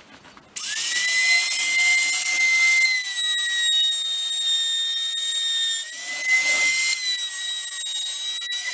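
High-speed router motor running with a loud, steady high-pitched whine while cutting a rebate along a strip of timber. It starts up about half a second in, and the pitch sags briefly twice as the bit takes load.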